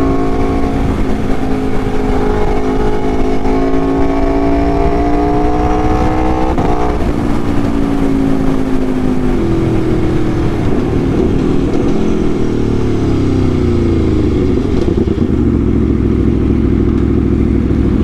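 Aprilia Tuono motorcycle engine under way: its pitch climbs steadily for about six seconds, drops with a gear change about six and a half seconds in, falls away further as the rider eases off, then holds steady near the end.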